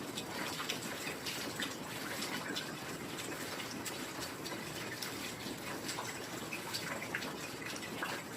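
Steady heavy rain: a dense, even hiss of rainfall with many separate drops and drips ticking through it.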